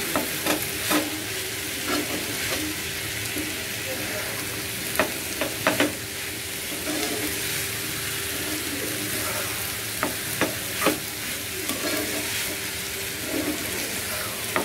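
Sliced snake gourd and grated coconut sizzling steadily in hot oil in a non-stick frying pan, being softened. A spatula stirs it, tapping and scraping against the pan a dozen or so times in small clusters.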